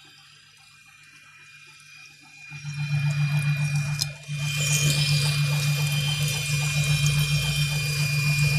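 Lathe parting off a steel hydraulic cylinder tube with a parting tool: fairly quiet at first, then about two and a half seconds in a steady machine hum with a thin high whine and hiss comes in. The sound drops out briefly about four seconds in, then carries on steadily as the tool cuts the groove.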